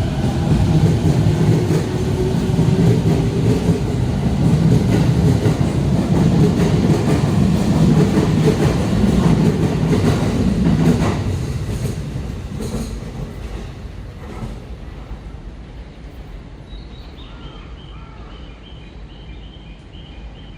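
A 15-car electric commuter train pulling into the platform and braking: loud wheel and running noise with a motor whine falling in pitch as it slows, dying away from about eleven seconds in as it comes to a stop. Faint, evenly spaced high beeps follow near the end.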